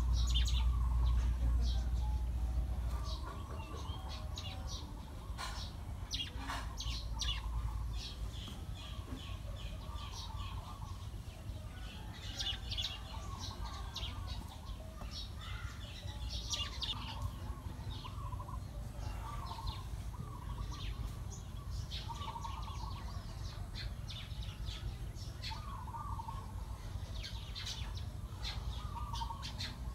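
Birds chirping and calling: quick high chirps throughout, and a lower warbling call repeated every second or two. A low rumble is strongest for the first few seconds, then eases.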